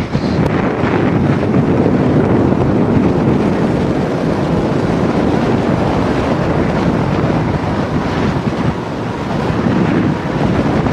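Typhoon-force wind buffeting the microphone: a loud, steady rush of wind noise.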